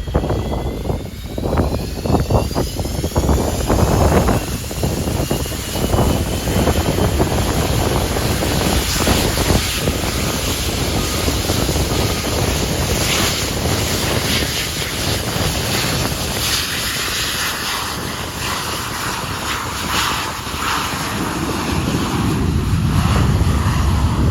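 Boeing 737-200's Pratt & Whitney JT8D turbofan engines spooling up to takeoff power, a whine rising in pitch over the first several seconds, then a steady loud jet roar. Wind buffets the microphone throughout and grows stronger near the end.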